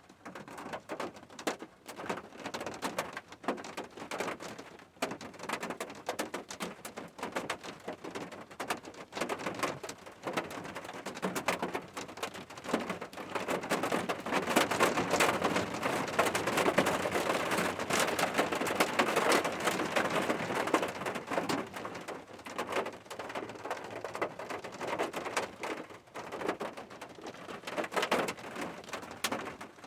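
Steady rain falling on a hard surface, with many separate drops ticking close by. It grows heavier for a stretch in the middle, then eases back.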